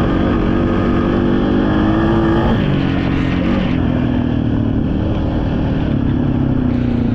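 Honda Rubicon ATV engine running under way on a trail ride, its note stepping down about two and a half seconds in, then running on steadily.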